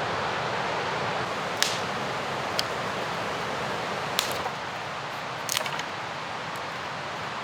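Steady rushing of a mountain river, with a few sharp, short cracks or clicks over it: one at a time about a second apart, then a quick little cluster near the end.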